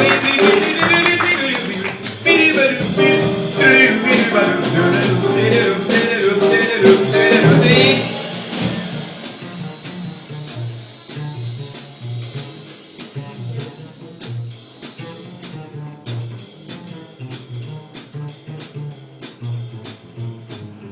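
Small jazz group playing a blues at a swing tempo. A bending melodic lead line carries the first eight seconds. Then it drops much quieter to a stepping bass line under light, regular cymbal strokes.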